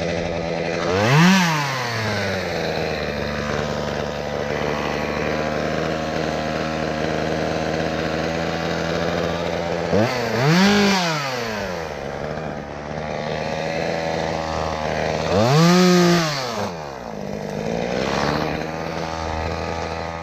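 Chainsaw running at idle, with its throttle opened three times, about a second in, around ten seconds and around sixteen seconds, each time rising in pitch and dropping back to idle.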